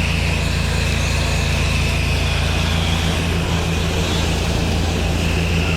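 Pressure washer engine running steadily, with a steady high hiss above its low hum.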